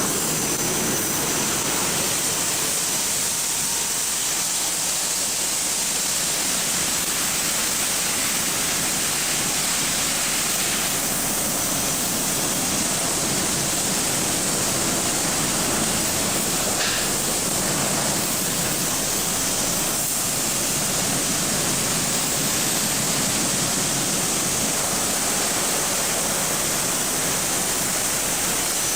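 Belanger FreeStyler automatic car wash running, with a steady, loud rush of water spraying.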